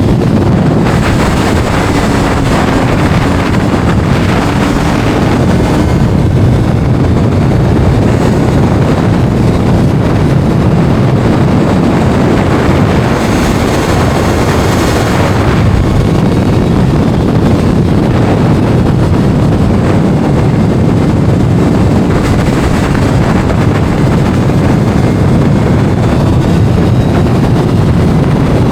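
Kawasaki inline-four sport motorcycle engine running at speed, heavily mixed with wind buffeting on the microphone.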